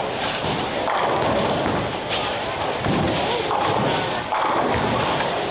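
Bowling alley noise with several heavy thuds of bowling balls striking the lane.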